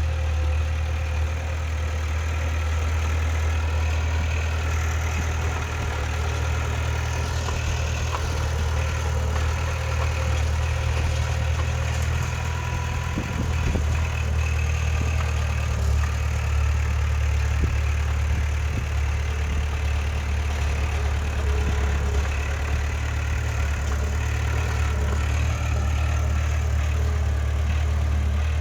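Heavy diesel engine of an earthmoving machine (bulldozer or dump truck) running steadily, with a deep even drone and no marked revving.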